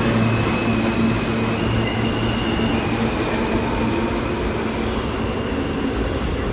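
New York City subway train running in the station: a steady rumble of wheels on rail with a low hum that fades about halfway through, and faint high whines above it.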